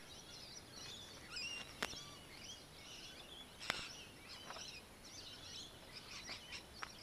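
Faint birdsong: many short chirps and warbling calls. Two sharp clicks stand out, about two seconds apart.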